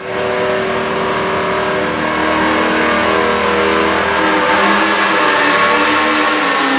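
Diesel pickup truck engine running hard at high revs, pulling a weight sled, with the engine note wavering slightly.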